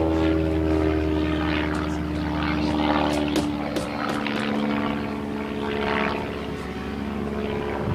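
Propeller airplane engine running with a steady drone.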